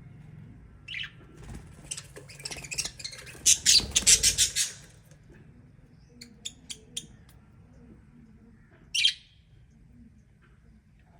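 Lovebirds giving shrill, high chirps and squawks. There is a single call about a second in, then a loud rapid run of calls for a couple of seconds, a few short ticks, and one more call near the end.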